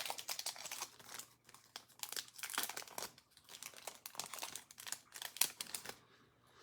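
Foil wrapper of a 2020 Panini Select football card pack crinkling and crackling as it is torn open and handled, stopping near the end.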